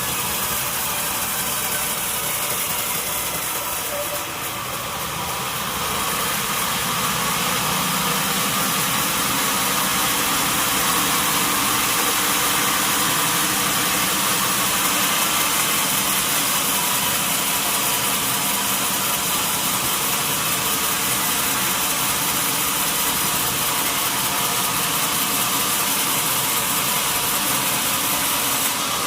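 Sawmill machinery running steadily, a continuous mechanical drone with noise, while a mahogany log is being sawn. It dips briefly about four seconds in, then runs a little louder.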